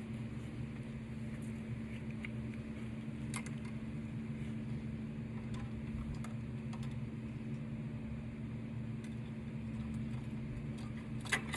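Steady low engine hum at an even pitch, with a couple of faint clicks.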